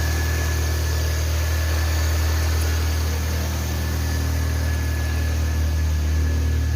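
An engine running steadily at idle: an even low hum with a thin, steady high whine above it.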